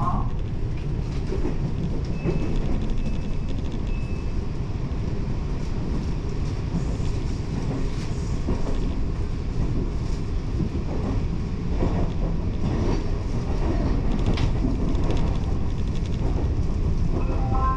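Taiwan Railway train running along the track, a steady low rumble with scattered wheel clicks. Near the end a stepped chime melody starts.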